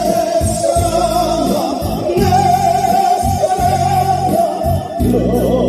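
A man singing a Korean ballad with vibrato over a band accompaniment.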